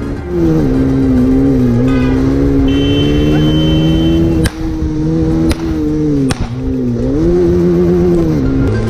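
Motorcycle engines revving, their pitch rising and falling repeatedly through the chase, with three sharp cracks in the middle.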